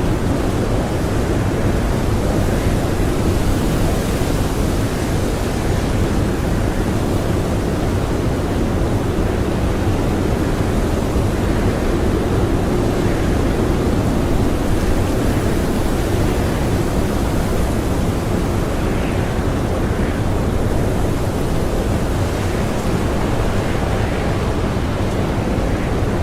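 Blizzard wind blowing steadily: an unbroken rush of noise, weighted low, without gusts or breaks.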